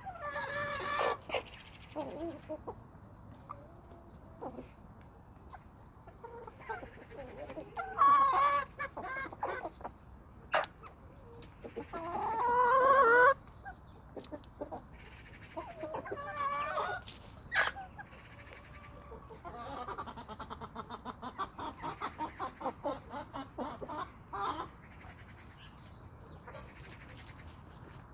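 Domestic chickens clucking and calling in separate bursts, the loudest a drawn-out call about twelve seconds in. Near the end comes a fast run of short, rapid clucks.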